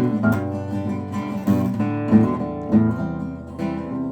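Acoustic guitar strumming chords between sung lines of the song.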